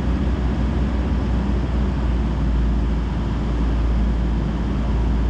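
Excavator's diesel engine running steadily with a low rumble.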